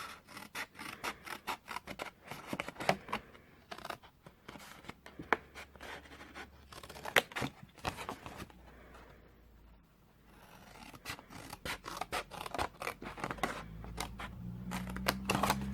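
Scissors snipping through cardstock along a score line, a run of short sharp cuts with a brief pause partway through.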